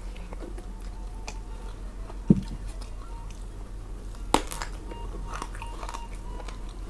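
Close-up mouth sounds of chewing food. There is a sharp low thump about two seconds in. A crisp bite into a raw round green eggplant comes a little after four seconds in, followed by crunchy chewing.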